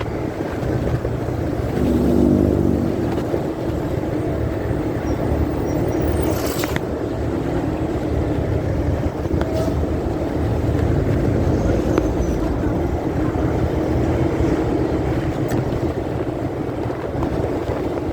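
Motorcycle engine and riding noise, steady, picked up by a phone carried in the rider's pocket. A brief sharp noise comes about six and a half seconds in.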